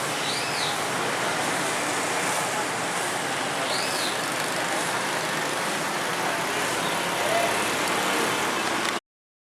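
Steady hiss of a rainy street, with two brief high chirps that rise and fall, about three and a half seconds apart; the sound cuts off abruptly near the end.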